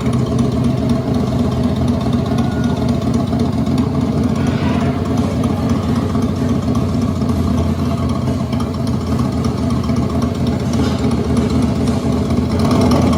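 Steady, loud motorcycle-style engine idle, the low rumble of the coaster's motorbike ride vehicle, with a brief swell of higher noise about four seconds in and again near the end.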